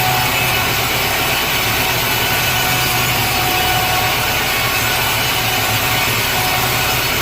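Sawmill saw cutting steadily through a large teak log, with the saw's motor running underneath as a steady low hum.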